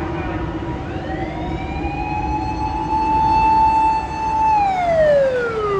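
Fire engine siren wailing: the pitch rises slowly, holds steady, then falls away near the end.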